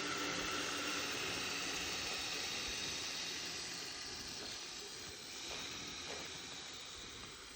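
Kyosho Blizzard radio-controlled tracked vehicle running: a steady hissing noise from its electric drive and tracks, with a faint whine that stops about a second in. The sound slowly grows fainter toward the end.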